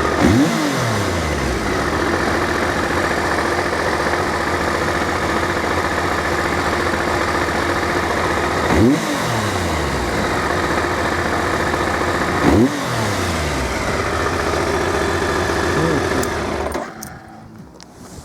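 Triumph Sprint RS 955i motorcycle's three-cylinder engine idling, blipped three times with quick revs that rise sharply and fall back. It is switched off a little before the end, leaving wind noise.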